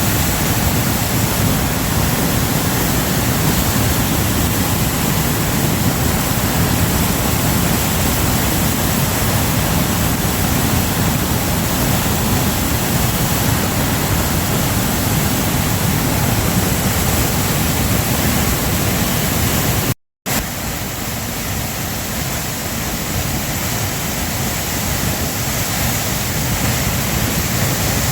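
Steady loud rush of a waterfall. It cuts out for a split second about two-thirds of the way through, then returns slightly quieter and slowly grows louder.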